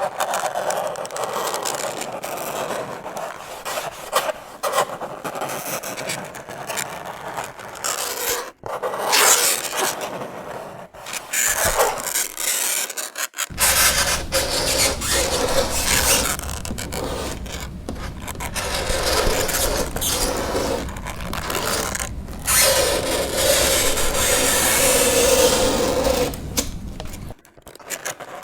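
Fingernails scraping across a chalkboard in long, repeated strokes, a shrill squeal riding over the rasp, with a few brief pauses between strokes. A low hum runs underneath through the second half.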